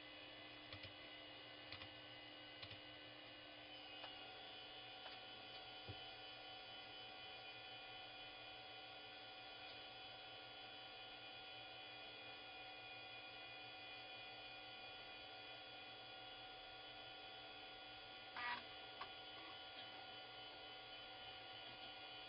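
Faint steady electrical hum with several high steady tones from running computer hardware, with a few soft clicks in the first few seconds and a short scratchy noise about eighteen seconds in.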